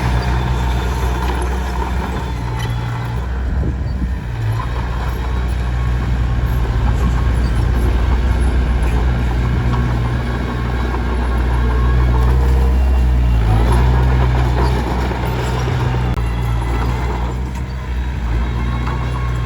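Komatsu D21P bulldozer's diesel engine running steadily under load, with a broad grinding noise over it, swelling somewhat about two-thirds of the way through.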